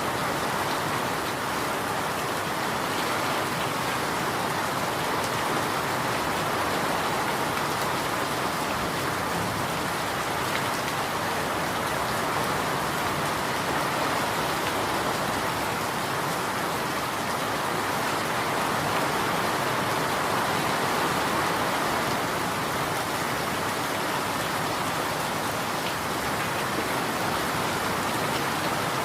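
Steady, even rainfall, a continuous hiss of rain falling on surfaces with no let-up.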